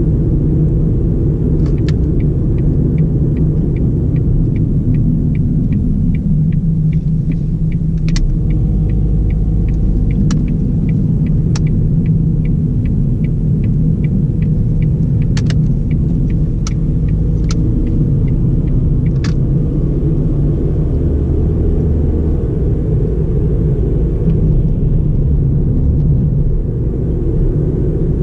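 Cabin sound of a 2009 Ford Fiesta 1.4 driving: a steady low rumble of engine and road noise. For the first twenty seconds or so there is a regular ticking, about two to three ticks a second, like the turn-signal indicator, with a few sharper clicks among it.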